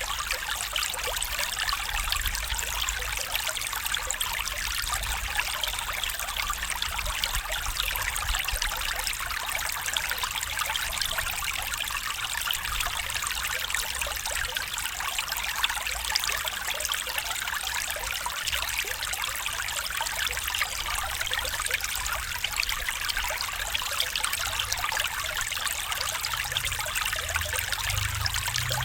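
A small stream flowing and trickling over stones, a steady, unbroken water sound.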